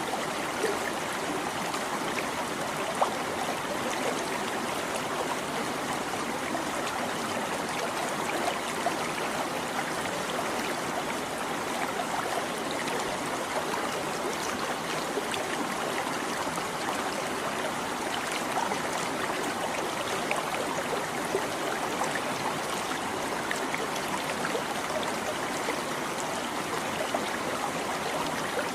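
Small stream babbling steadily, water trickling and gurgling, with many small plinks of water throughout.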